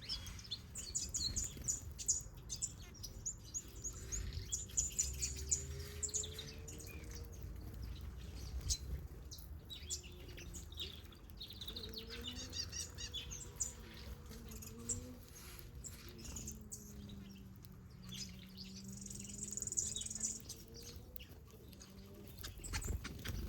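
A mixed flock of aviary finches and softbills chirping and twittering: many short, high calls overlapping, with denser bursts of twittering about halfway through and again near the end.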